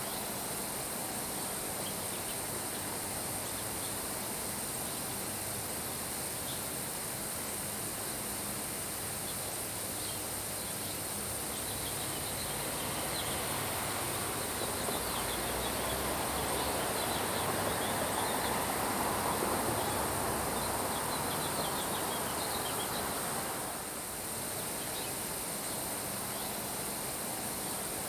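Steady summer rain falling on grass, with a gust of wind that swells up about halfway through and dies away about two-thirds through. Faint short high chirps sound over it during the gust.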